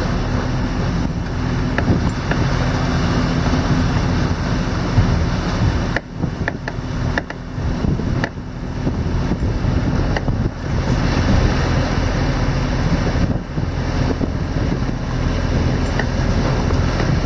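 A sailboat's inboard engine running steadily to charge the battery, a low hum under a constant rush of wind and water, with a few brief knocks.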